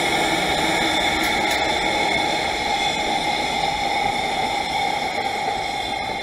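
Freight train of empty container flatcars rolling past behind a JR Freight EF210 electric locomotive: a steady rumble and hiss of steel wheels on rail, easing near the end as the last wagon goes by.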